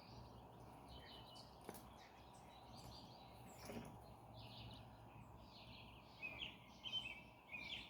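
Faint birdsong: small birds chirping over a steady low background noise, with quicker, louder chirps near the end.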